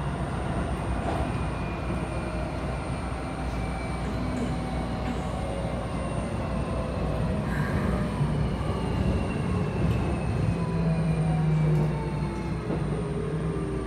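Keikyu 1000 series train with Toshiba IGBT-VVVF inverters, heard from inside the car: wheels running on rail under a set of thin inverter and motor tones that slowly fall in pitch as the train slows.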